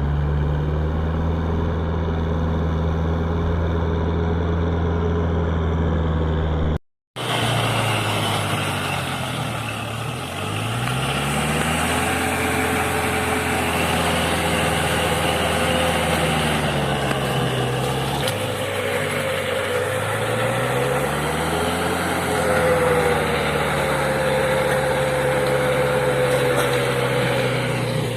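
Kubota tractor's diesel engine running under load from a rotavator in hard soil, its note sagging and recovering twice. The sound cuts out for a moment about seven seconds in.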